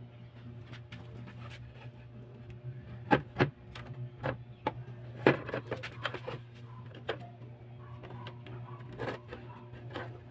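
Irregular clicks and knocks of parts being handled during work on a washing machine's drain valve, over a steady low hum.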